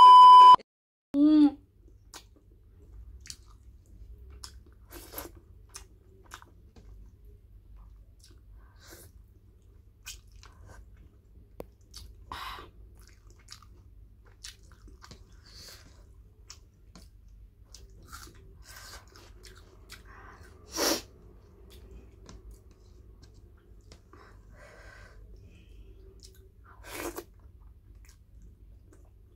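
A brief steady TV test-card beep over colour bars, then a short falling tone. After that comes quiet close-miked eating: chewing, lip smacks and soft clicks as pork and rice are eaten by hand, with two louder smacks later on.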